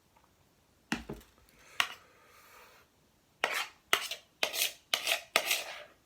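Utensil clinking and scraping against a dish as salsa is spooned out: two sharp clinks in the first two seconds, then a quick run of about six louder scrapes in the second half.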